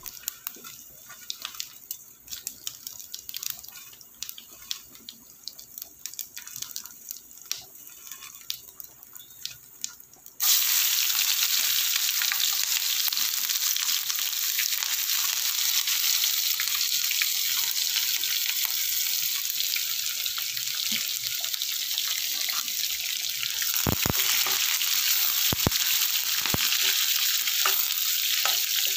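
Whole spices crackling and popping in hot oil in a small frying pan. About ten seconds in, a sudden loud sizzle begins as sliced onions and garlic hit the oil, and it keeps sizzling, with a few knocks of a spatula against the pan near the end.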